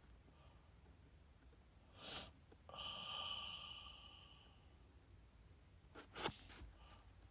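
A quick sniff or breath, then a single electronic chime that rings and fades over about two seconds, followed by two soft clicks near the end.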